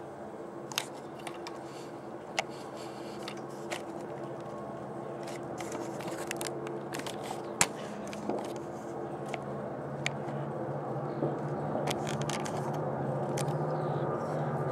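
Diesel locomotive engine of a coke train running with a steady low hum that grows gradually louder as it approaches, with scattered sharp clicks over it.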